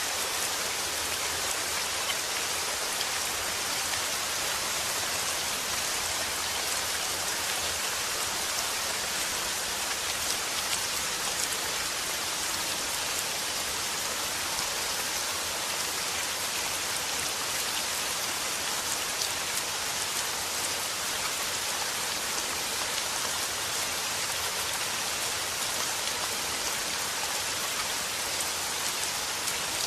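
Steady rain falling, a continuous even hiss of many drops pattering on a surface.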